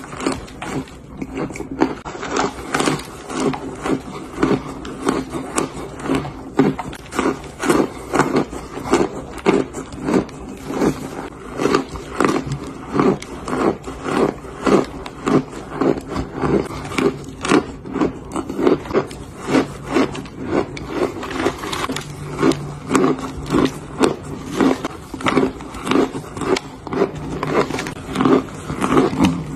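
Chewing and biting chunks of crispy cornstarch: a steady run of crunches, about two a second.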